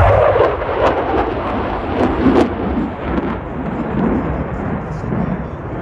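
Loud jet noise with crackle from an F-35A Lightning II's single F135 turbofan as it flies past. The pitch falls over about the first second, then settles into a rough rumble.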